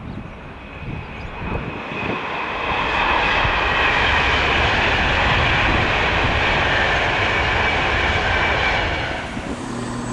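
Virgin Trains Class 390 Pendolino electric express passing at speed, a steady rush of wheels and air with a faint high whine that swells over the first few seconds, holds, and dies away near the end.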